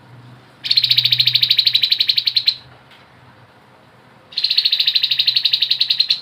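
Grey-headed babbler singing two long, rapid trills of even pitch, each lasting about two seconds with a short pause between: the continuous 'ngebren' chatter prized in this bird.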